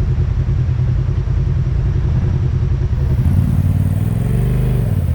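Off-road vehicle engine running with a low, pulsing rumble. The tone shifts to a higher, steadier note about three seconds in.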